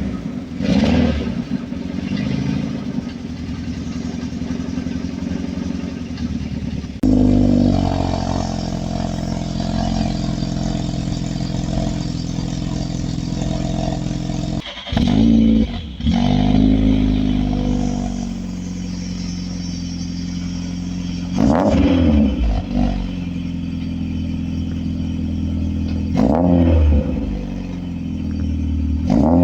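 VW Fox 1.9i engine running through a new exhaust system, its revs climbing several times as it accelerates, with short dips in between.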